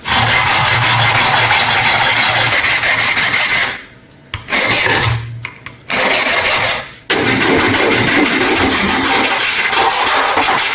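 Electric power tool running against metal, abrading rust off a brass lamp. It stops briefly twice, about four seconds in and just before seven seconds, then starts again each time.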